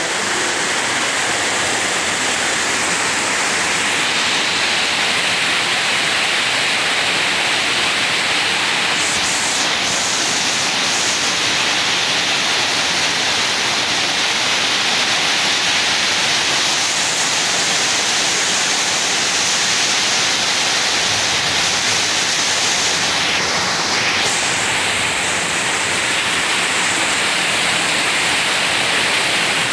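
Heavy tropical downpour: torrential rain falling in a steady, loud hiss.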